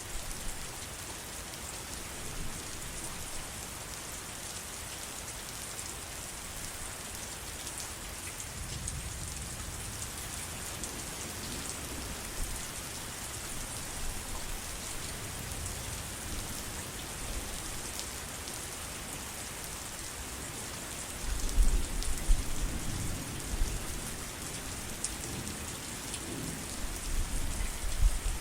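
Steady rain hissing, with low rumbles of distant thunder about eight seconds in and again, louder, about twenty seconds in.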